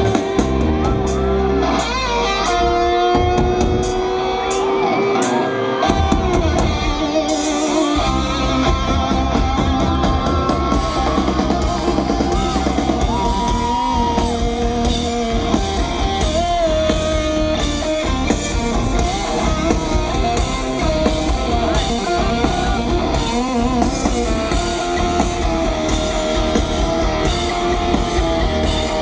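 Live rock band playing, led by electric guitar, with the drums and low end coming in fully about six seconds in.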